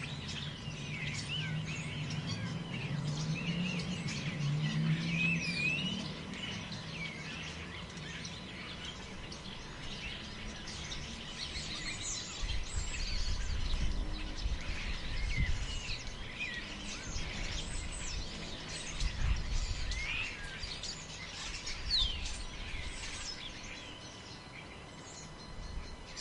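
Many small birds chirping and twittering all through, with low wind rumble swelling in gusts a few times.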